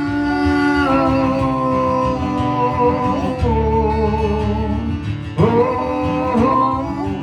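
Acoustic guitar music: a plucked accompaniment under a long held melody line that slides to new notes twice.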